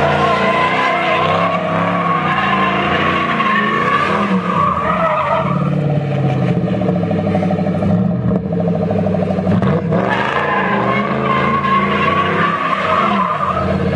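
A 1968 fastback doing a burnout: the engine is held at high revs while the rear tyres spin with a wavering squeal. About a third of the way in, the squeal drops back under the engine note, then picks up strongly again near the end.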